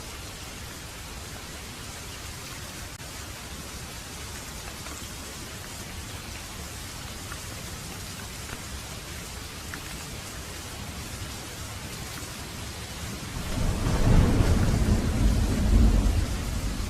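Steady heavy rain hissing, then about three-quarters of the way through a loud rolling rumble of thunder that swells twice and starts to fade near the end.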